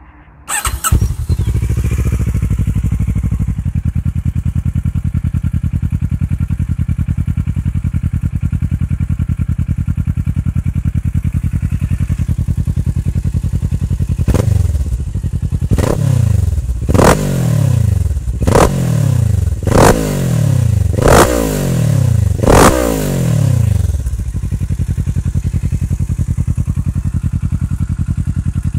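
Kawasaki Versys motorcycle engine breathing through an Arrow Dark Line aftermarket silencer: it starts up about a second in and settles into a steady idle. Midway it is blipped seven times in quick succession, each rev rising sharply and falling back, then it returns to idle.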